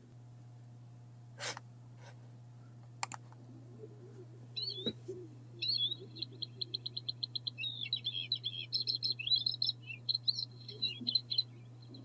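Bluethroat singing: after a few seconds of quiet with a couple of faint clicks, a high song starts with a fast run of repeated notes, then varied chirping phrases, over a steady low hum.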